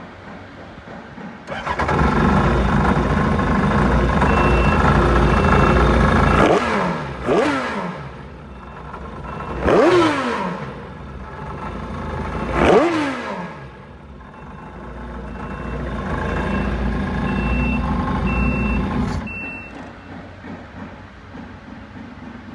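Yamaha 1100 jet ski engine starting, running, then revved three times with the pitch dropping back after each blip, and shut off near the end. A high electronic beep sounds on and off over it.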